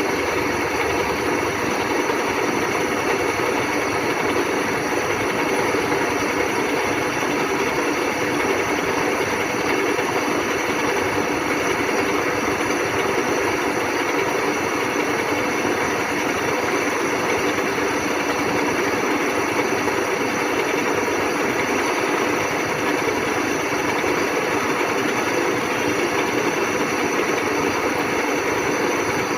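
WMW Heckert GFLV 250 x 2000 thread milling machine running: a steady mechanical hum with a few constant tones, unchanging throughout.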